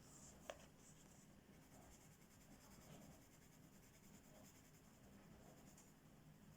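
Faint scratching of a colouring pen or pencil stroking across the paper of a colouring book, with one sharp tap about half a second in.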